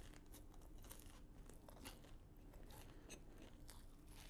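Soft, crunchy chewing of a fried chicken tender with a thick, hard batter: a scatter of faint crackling crunches.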